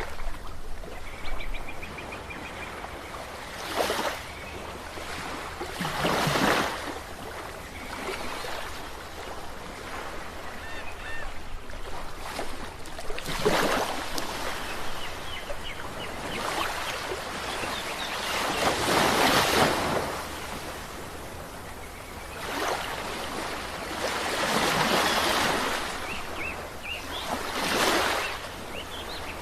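Ocean waves breaking and washing up the shore, about six larger surges rising and falling over a steady surf hiss.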